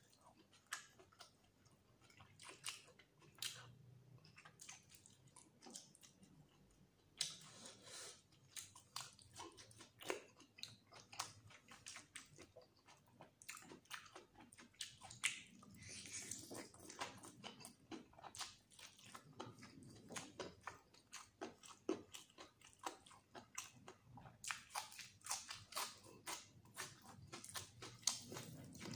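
A person chewing and biting chicken curry and rice eaten by hand, close to the microphone, with many short wet mouth clicks and smacks throughout.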